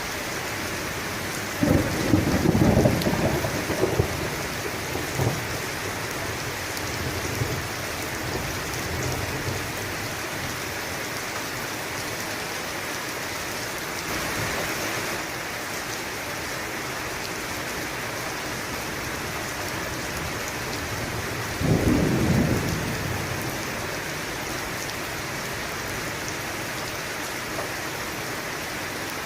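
Steady heavy rain with two rolls of thunder, the first about two seconds in and rumbling on for a few seconds, the second shorter, about three-quarters of the way through.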